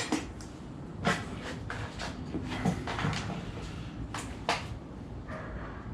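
A few separate clicks and knocks of engine parts and tools being handled during engine assembly, over a low steady hum.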